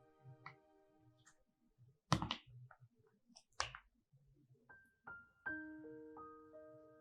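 Gentle piano background music, broken by two short, sharp clatters of kitchen work about two seconds and three and a half seconds in, the loudest sounds here; after the second, the piano notes come back.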